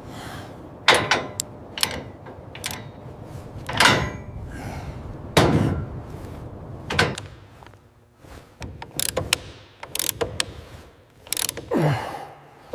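A string of irregular mechanical clanks and knocks, about a dozen sudden hits spaced unevenly, some ringing briefly, over a low steady background.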